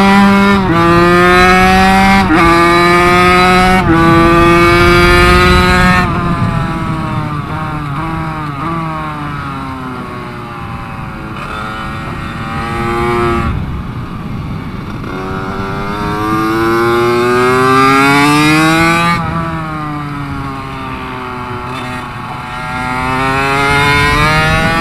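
KTM 65 SX two-stroke engine heard on board while riding a lap. It revs up through quick upshifts in the first few seconds, the pitch dropping at each shift, then falls away with the throttle closed. It winds up twice more, dropping off sharply between. It pulls cleanly, with no sign of the fuel starving or high idle its owners suspected.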